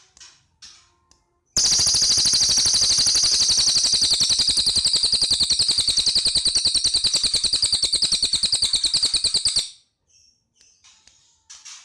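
Cililin bird singing: a few short faint notes, then about a second and a half in a loud, fast rattling trill of evenly repeated high notes that runs about eight seconds and stops. Faint short calls follow near the end.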